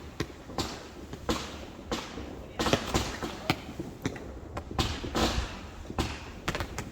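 Fireworks going off: an irregular run of sharp bangs and pops, a few of them loud, some trailing off into short crackles.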